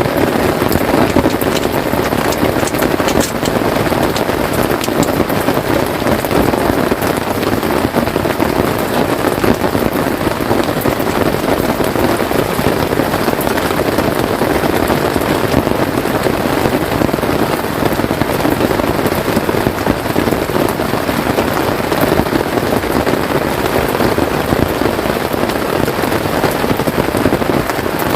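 Steady heavy rain pattering on a tent, a dense even patter of drops.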